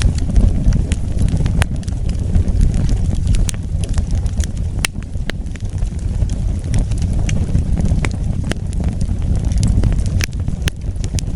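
Wood fire burning with a steady low rumble and scattered sharp crackles and pops, a few of them louder about five seconds in and near the end.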